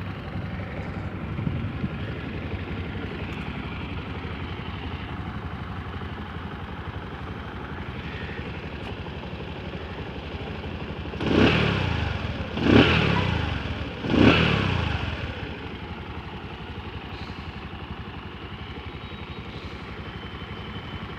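Bajaj Discover 100cc single-cylinder four-stroke motorcycle engine idling steadily just after an air filter service. About halfway through it is blipped three times in quick succession, each rev rising and dropping back to idle.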